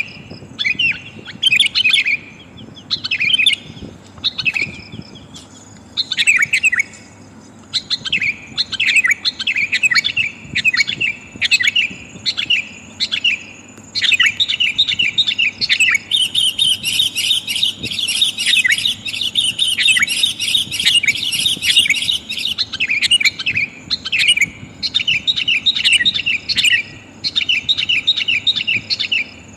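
Sooty-headed bulbul calls: at first, short bursts of chirping notes with gaps between them, then faster runs, becoming a dense continuous chatter about halfway through before breaking back into quick phrases. This is a lure call, presented as a female calling to a male.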